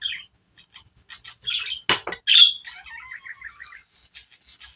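A small bird chirping and squawking in short high-pitched calls, with a quick run of repeated notes near the end, and a single sharp knock just under two seconds in.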